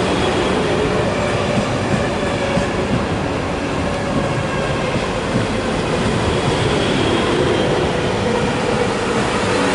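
A ten-car Class 444 Desiro electric train running into the platform: a steady rumble of wheels on rail with a faint electric whine.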